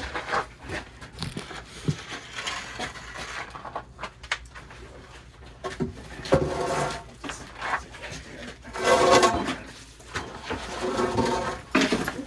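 Irregular scraping, knocks and thuds of a heavy object being turned and shifted by hand, with a denser spell of scraping a little past the middle.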